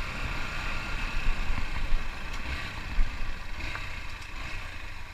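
Motorcycle engine running under way, with an uneven low rumble of wind on the microphone.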